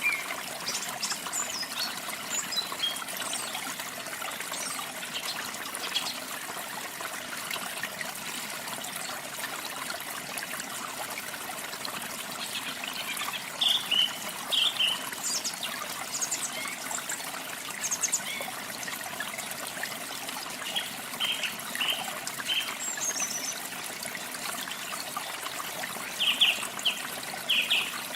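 Steady rush of falling and trickling water, with songbirds chirping and trilling over it in short scattered phrases, most of them in two clusters, midway and near the end.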